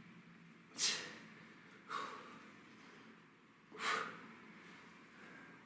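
A man breathing hard from exertion, with three sharp, hissing exhales one to two seconds apart, in time with push-up reps.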